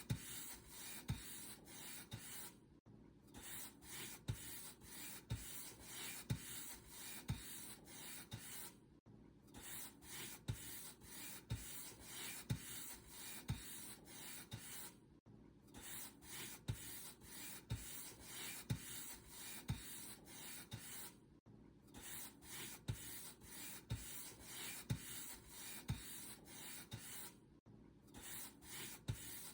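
Paint brush bristles stroking back and forth over a surface in a steady scratchy rhythm, with a soft low thump on each stroke and a brief pause about every six seconds.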